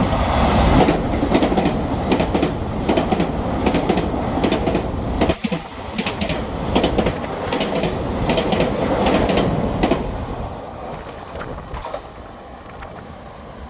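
A train passing through the station at speed: a loud rumble with a rapid, uneven series of wheel clacks over the rail joints, dying away over the last few seconds.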